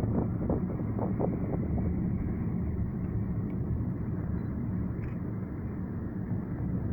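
Car driving along a road: a steady low rumble of engine and tyres, with wind buffeting the microphone and a few short knocks in the first two seconds.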